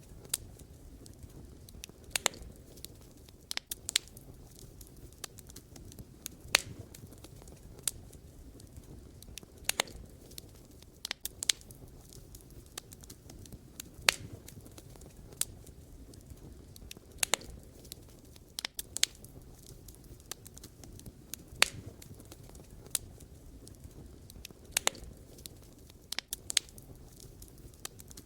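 Wood fire burning, with irregular sharp crackles and pops of the logs over a low, steady rumble of the flames.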